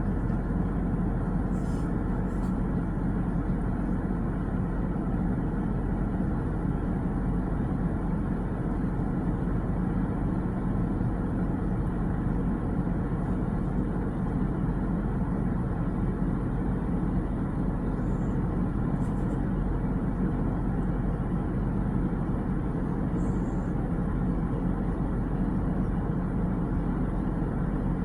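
Steady low rumbling background noise, even throughout, with a few faint high ticks.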